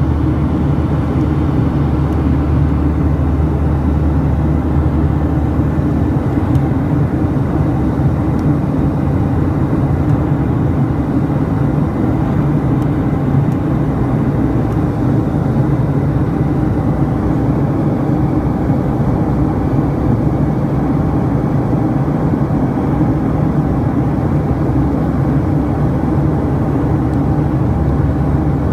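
A United Boeing 737-800 airliner in flight, giving a steady, loud drone of its CFM56 turbofan engines and rushing air, heavy in the low range and unchanging.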